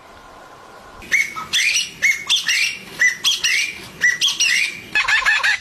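A bird calling over and over, a sharp call about twice a second, starting about a second in; near the end a faster, busier chattering of calls takes over.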